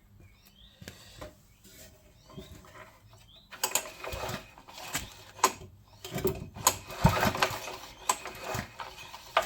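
Honda GX110 single-cylinder four-stroke engine being pulled over repeatedly on its recoil starter from about three and a half seconds in, rasping and turning over without catching: the ignition switch is off.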